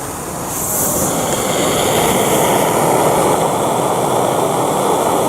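Gas canister camping stove burner running with a steady roar. It grows louder about a second in and cuts off suddenly at the end.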